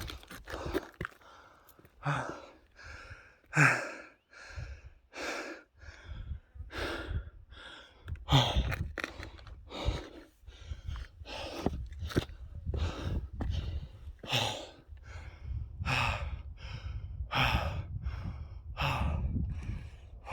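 A person breathing hard and fast, with a quick, even rhythm of breaths. A low rumble joins underneath about eight seconds in.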